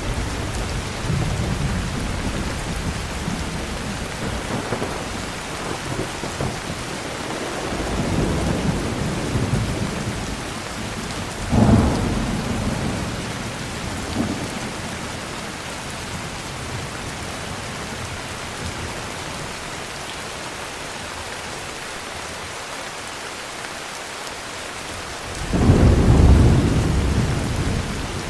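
Steady heavy rain with rolling thunder: low rumbles come and go, a sharp crack of thunder about halfway through, and a loud rumble breaks in near the end.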